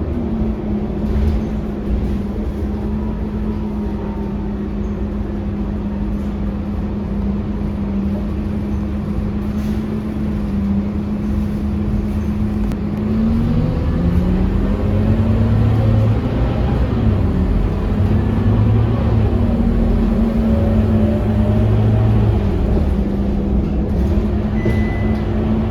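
Scania K230UB city bus's diesel engine running steadily. About halfway through its pitch dips, then climbs back and it runs louder as the bus picks up speed.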